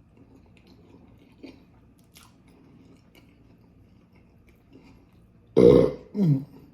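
Faint chewing, then two loud burps in quick succession near the end, each with a falling pitch.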